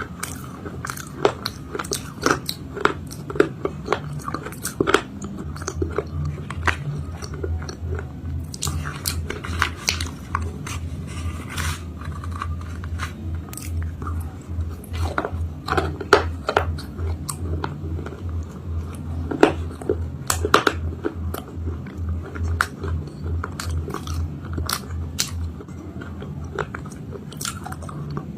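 Close-up biting and chewing of a crunchy cake made of dried chalk paste, with many sharp crackling crunches and a low rhythmic throb underneath through most of it.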